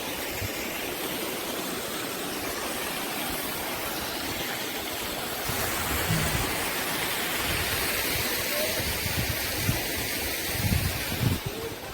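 Water of a small waterfall rushing, a steady even hiss, with low bumps on the microphone in the second half.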